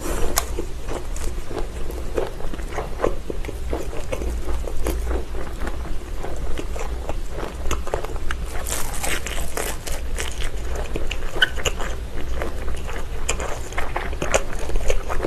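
Close-up chewing of Vienna sausages, with many irregular wet clicks and snaps as the casings are bitten through.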